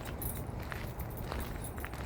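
Footsteps walking along a trail, a short crunching step about every half second.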